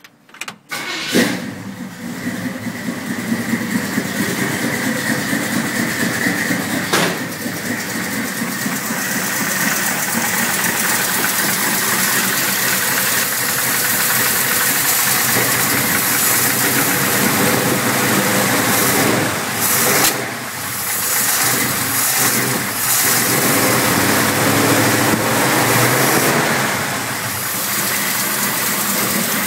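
Carbureted V8 of a 1970 Chevrolet pickup, with a Holley 750 four-barrel carburetor, cold-started: it catches about a second in and settles into steady running at idle. It shows a few brief changes in engine speed in the second half.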